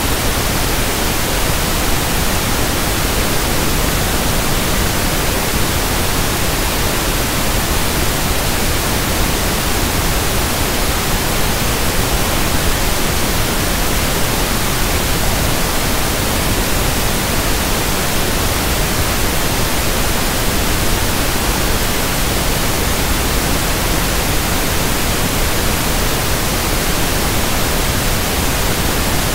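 Synthetic 1/f pink noise: a steady, even hiss spread across all pitches, unchanging in level.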